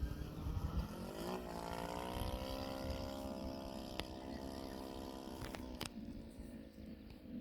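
Model airplane engine running, its pitch rising about a second in and then holding steady before it stops or fades away near the end, over a low rumbling noise.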